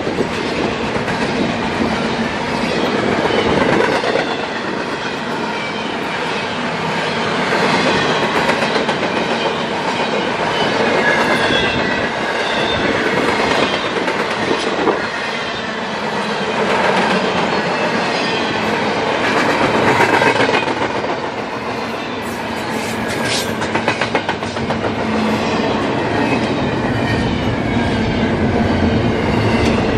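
A CSX double-stack intermodal train's container well cars rolling past at close range: a loud, continuous rumble and rattle of steel wheels on the rails, swelling and easing as the cars go by.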